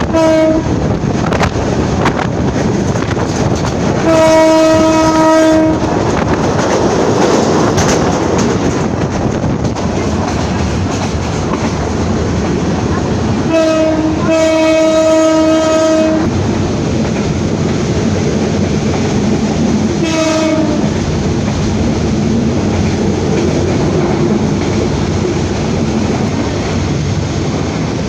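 Locomotive horn sounding a series of blasts: a short toot, a long blast about four seconds in, a short-then-long pair near the middle, and another short toot about twenty seconds in. Under the horn runs the steady rumble and wheel clatter of a moving train.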